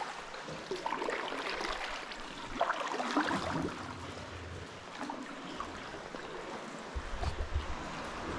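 Sea water lapping and splashing around a sea kayak, with irregular gurgles and splashes of paddle and swell. Low rumbles come in near the end.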